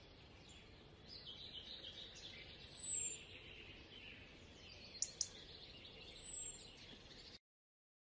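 Forest birdsong: a bird gives a short, high, falling whistle three times, a few seconds apart, over faint high chirping. Two sharp clicks come about five seconds in, and the sound cuts off abruptly near the end.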